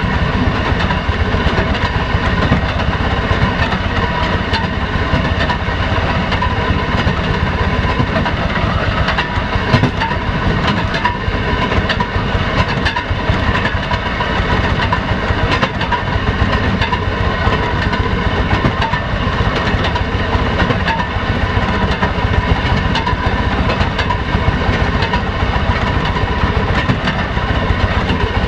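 Railroad motor car (speeder) under way, its engine running steadily, with occasional sharp clicks of the wheels on the rails.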